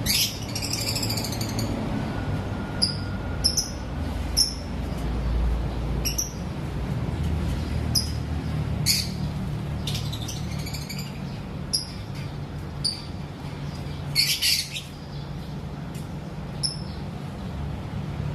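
Lovebirds chirping and squawking: short, sharp high chirps every second or so, with louder chattering bursts at the start and about fourteen seconds in, over a steady low hum.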